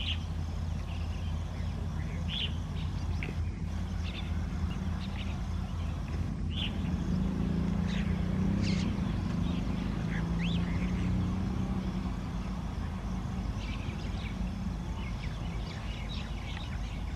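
Low, steady rumble of a distant approaching train hauled by a WAP-5 electric locomotive, swelling slightly about halfway through. Birds give short chirping calls throughout.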